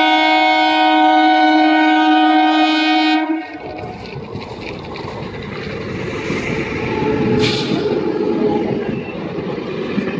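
Electric multiple unit local train sounding a long, steady horn for about three seconds, then running in alongside the platform with a continuous rumble and clatter of wheels on the rails. A brief hiss is heard a little past the middle.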